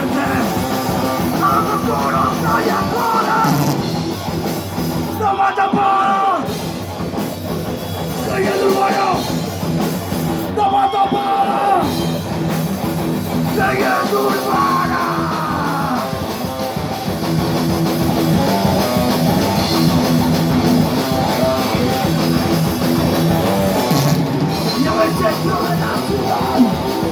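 Thrash metal band playing live: distorted electric guitars, bass and drums.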